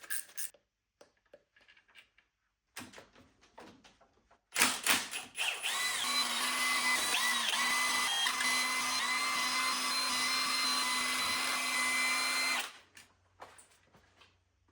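Electric drill running a long Torx T30 bit to back out the back-plate bolts, spinning steadily for about eight seconds from about four and a half seconds in. Its pitch wavers briefly early in the run. A few light tool clicks and taps come before it.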